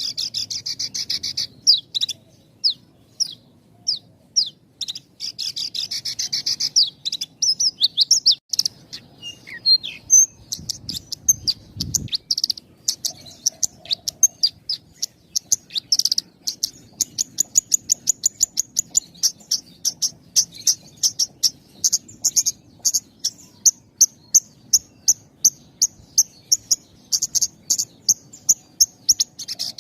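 Horsfield's bushlark (branjangan) singing continuously with very short pauses: a fast string of short, sharp, high notes, mixed with buzzy trills in the first several seconds and settling into a rapid even series of clipped notes, about four or five a second, in the second half.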